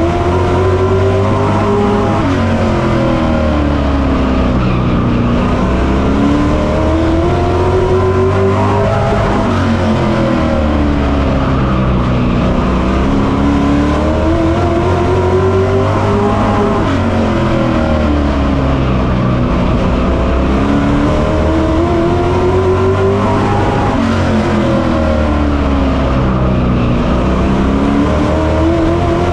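Race truck engine heard on board at racing speed, its revs climbing steadily and then dropping off in a regular cycle about every seven seconds as it laps the short oval.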